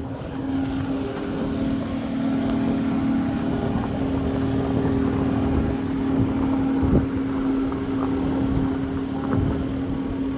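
Engine of the lifting equipment running steadily at a constant pitch while it hoists a truck engine, with a sharp knock about seven seconds in.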